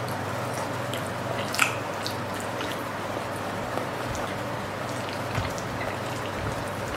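A person chewing a mouthful of stir-fried noodles and chicken, with a few faint clicks, over a steady background hiss and low hum.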